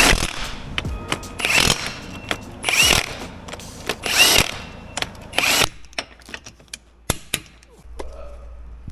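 Power tool running in about five short bursts roughly a second and a half apart, followed by scattered clicks and knocks.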